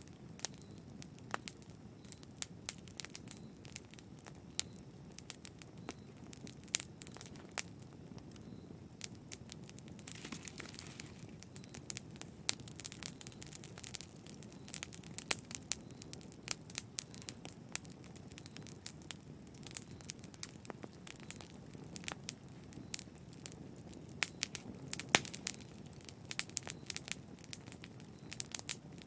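Wood fire burning in a fireplace, crackling: irregular sharp pops and snaps over a low steady rumble of flame, with a short hiss about ten seconds in.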